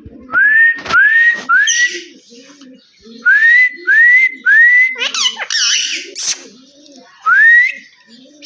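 Indian ringneck parrot whistling: a series of short rising whistle notes, three quick ones, then three more, a harsh squawky call, and one last whistle near the end.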